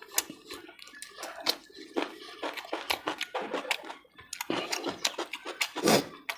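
Close-miked eating sounds: chewing with many quick, wet smacks and clicks of the mouth.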